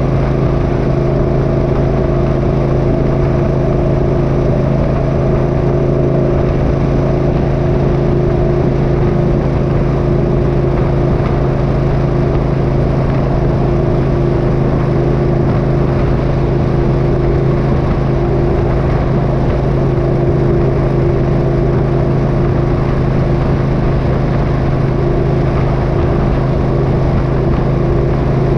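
Motorcycle engine running at a steady speed on the road, with a constant hum and road noise and no change in pitch.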